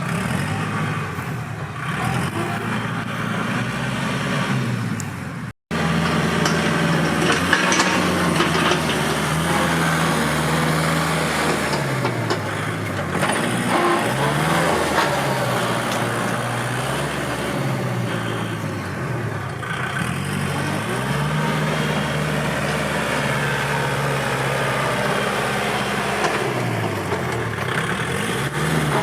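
Kubota L5018SP tractor's diesel engine running hard, its revs sagging and climbing back several times. The sound cuts out for an instant about five and a half seconds in.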